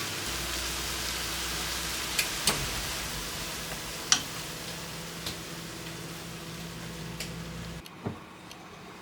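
Food sizzling in a frying pan, a steady hiss with a few sharp pops and crackles. It eases off slowly and drops away about eight seconds in.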